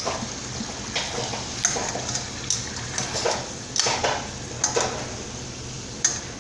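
Chicken pieces sizzling in hot oil in a skillet, with a utensil scraping and knocking against the pan about once a second as they are stirred and turned.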